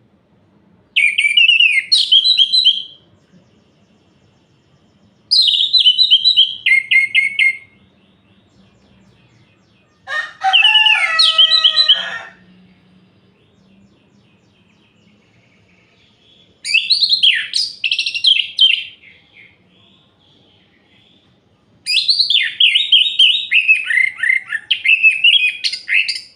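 Orange-headed thrush (anis merah) singing: five separate phrases of rapid, varied whistled notes, each about two to four seconds long, with pauses of a few seconds between them. The third phrase drops lower in pitch than the rest.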